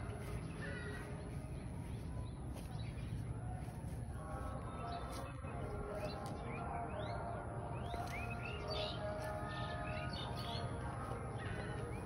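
Small birds chirping, with a quick run of short rising chirps starting about halfway through, over a steady low outdoor rumble.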